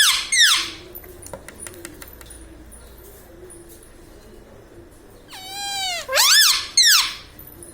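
Pet parrot giving loud, high pitched calls: two short calls at the start, then a longer call that dips and rises, followed by two quick calls about five to seven seconds in.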